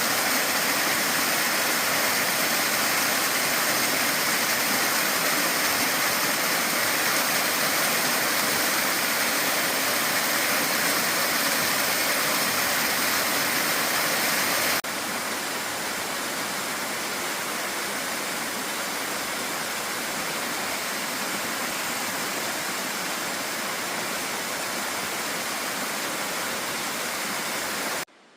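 Waterfall rushing steadily into a pool, an even roar of falling water. It drops a little in level suddenly about halfway through and cuts off just before the end.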